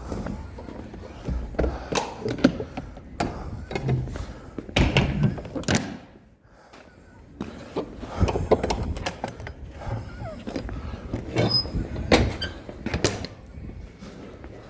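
A series of irregular knocks and thuds, hard objects being handled and set down, with a short lull about six seconds in.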